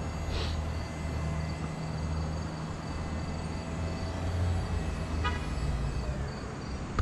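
Haulotte 5533A boom lift's power unit running with a steady low drone. A short beep-like chirp sounds about five seconds in.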